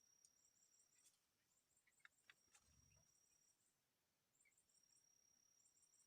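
Near silence with a faint, high-pitched insect trill in the background, coming in bouts of a second or two with rapid short chirps between them; a few faint clicks and a soft low thump come in the middle.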